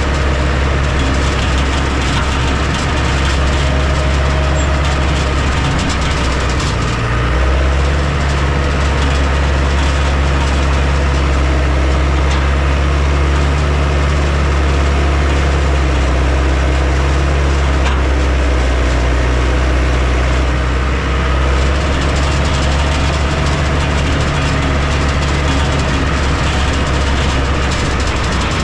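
Heavy diesel engine of an earthmoving machine running steadily under load, its note shifting slightly about seven seconds in.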